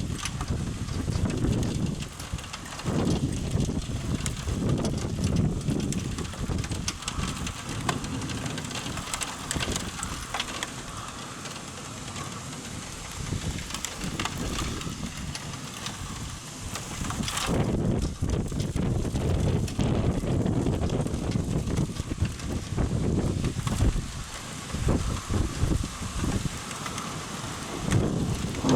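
Thunderstorm: steady rain hiss with low rumbles that swell and fade, and a single sharp crack about seventeen seconds in.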